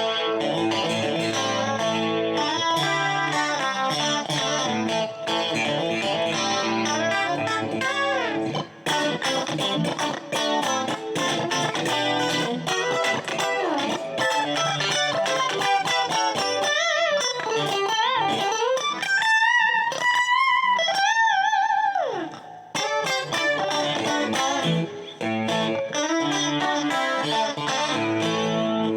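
Dimavery ST-312BK Stratocaster-style electric guitar played with a clean tone, picked notes and chords in a running phrase. Midway it moves to single high notes with string bends and vibrato before returning to chords.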